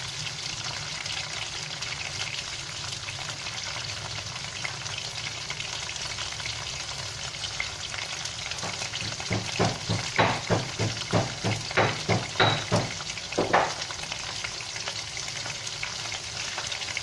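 Prawns frying in oil in a wok, a steady sizzle. A little past halfway comes a quick run of about ten short knocks, two or three a second.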